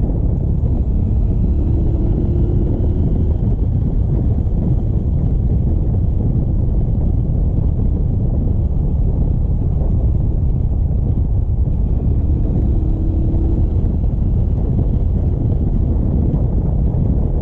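Steady rush of wind buffeting the microphone on a moving motorcycle, with the motorcycle's engine running under it.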